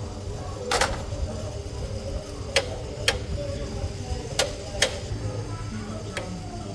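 Sharp knocks of hand tools striking metal, six irregularly spaced strikes, during work on a motorcycle's broken main-stand shaft.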